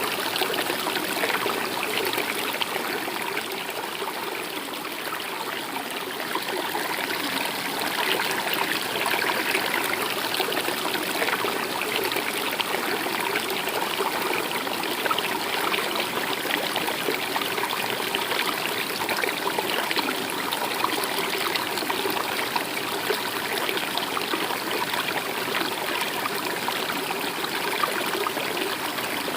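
A stream flowing steadily, with a continuous rushing and trickling of water.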